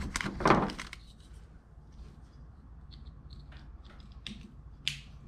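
Hands working on car door wiring and tools: two quick rustling scrapes at the start, then scattered faint clicks and ticks, with one sharper scrape near the end.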